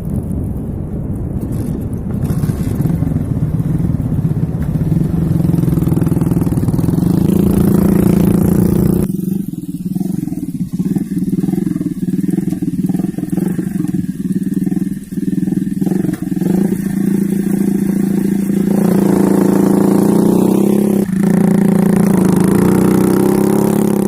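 A mini bike's Suzuki Smash 110 single-cylinder four-stroke engine runs under way, its note steady with the pitch edging up over the first several seconds. A low rumble under it cuts out about nine seconds in, and the engine gets louder again a few seconds before the end.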